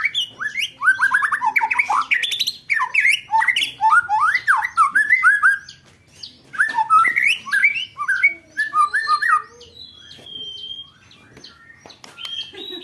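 White-rumped shama (murai batu) song from a bird-contest training recording: fast rolling runs of sharp rising and falling notes mixed with harsh rattles. A brief lull comes about halfway, then a held high whistle, and the end is quieter.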